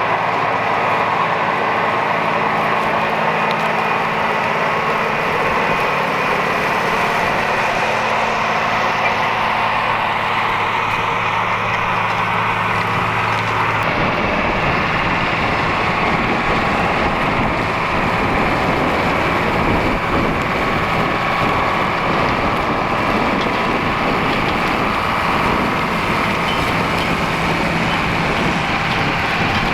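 Diesel farm tractor engine running steadily under load while pulling a plow. About halfway through the sound changes abruptly to a rougher, noisier mix in which the engine tone is less distinct.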